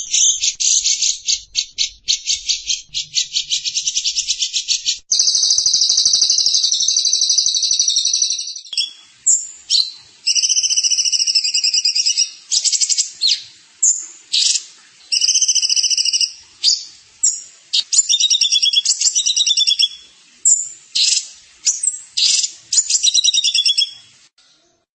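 A small songbird's recorded song: a fast, even, high rattling trill for about five seconds, then a continuous high warbling trill, then a run of short trilled phrases with brief gaps between them, stopping near the end.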